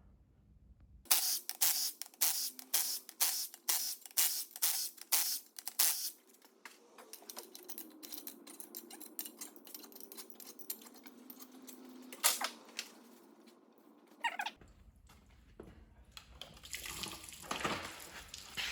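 Ratchet clicking in quick strokes, about three a second, as the cylinder head bolts of a 1.9 TDI engine are worked loose. Quieter scattered clicks of tools on metal follow.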